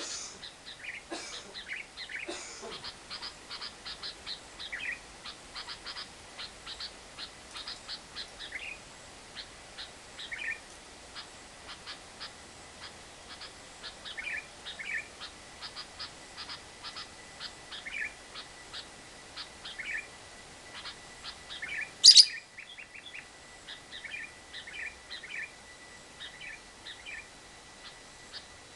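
Lovebird singing its long 'ngekek' chatter: runs of rapid, evenly repeated short notes broken by separate chirps, with one loud sharp call about two-thirds of the way through.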